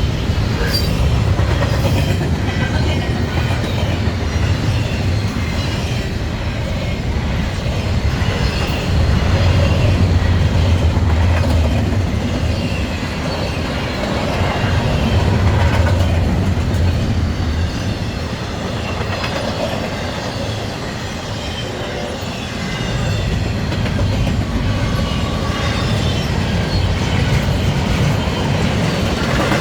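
Freight train passing: Norfolk Southern diesel locomotives and double-stack intermodal cars, a heavy low rumble that swells and eases, with the wheels clacking over the rails.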